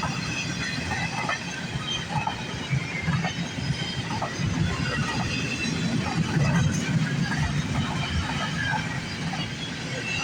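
CN freight train's cars rolling past: a steady rumble of wheels on rail, with many short wheel squeals and clicks throughout.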